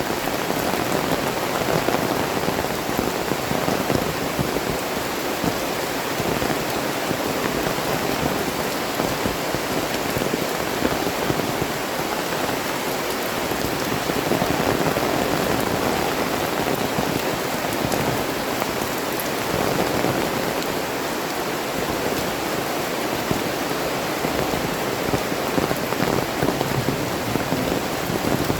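Heavy rain falling steadily, a dense, unbroken wash of drops.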